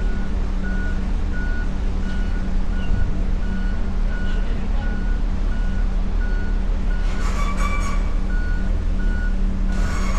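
A vehicle's reversing alarm beeping at an even pace, about two beeps a second, over the low hum of a heavy engine. Two brief, louder bursts come about seven and ten seconds in.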